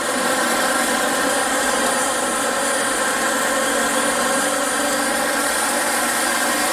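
Upright vacuum cleaner motor running steadily over carpet, a constant whining drone.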